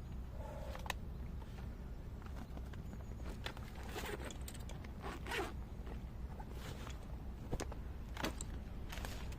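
A zip pulled in a series of short strokes, about six spread over several seconds.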